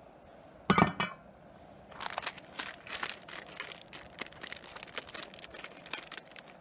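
Camp cookware for instant ramen: a sharp metal clink with a brief ring about a second in, then several seconds of irregular light clicking and crinkling.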